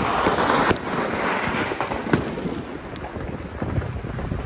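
Distant fireworks going off: scattered pops and crackling, with a sharper bang about two seconds in, and some wind on the microphone.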